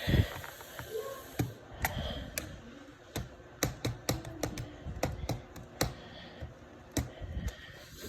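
Irregular sharp clicks and taps, a few a second, with a louder low knock right at the start.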